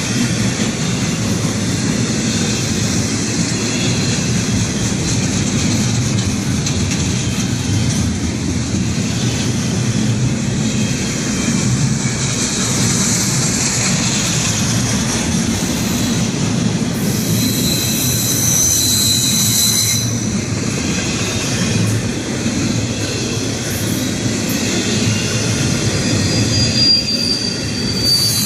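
Norfolk Southern freight train's cars rolling past with a steady rumble and rattle. High-pitched steel wheel squeal rises for a few seconds about two-thirds of the way in and again near the end.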